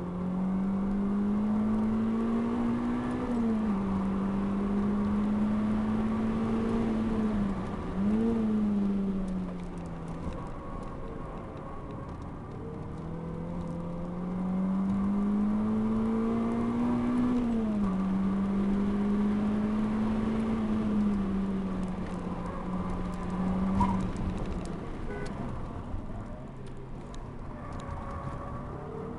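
Renault Clio RS 197's 2.0-litre four-cylinder engine heard from inside the cabin on a hard track lap. It climbs through the revs and drops at an upshift a few seconds in, then gives a sharp rev blip on a downshift around eight seconds. After a quieter stretch through a corner it pulls up again and shifts once more about halfway through.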